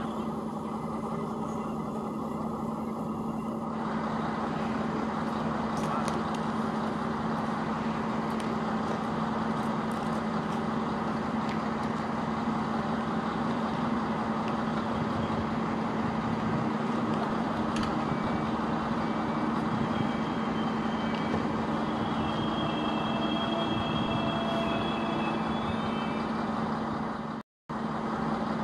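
A double-deck regional push-pull train running through the station with a steady low hum and rumble. From about twenty seconds in, a faint high squeal comes in as the train approaches the platform.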